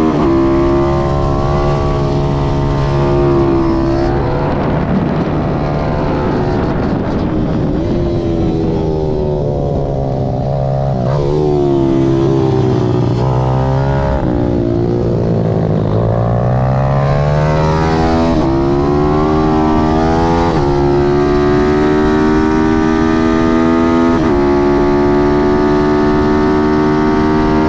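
Pitbike's Zongshen ZS190 single-cylinder four-stroke engine revving hard through the gears. Its pitch steps down suddenly at each upshift and falls away in long glides as it slows, then climbs again.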